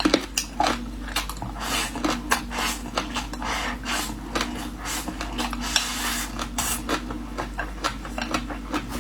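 Eating sounds: utensils clicking and scraping against a bowl and plate, with many quick clicks and a few short hissy stretches, amid chewing of noodles and rice.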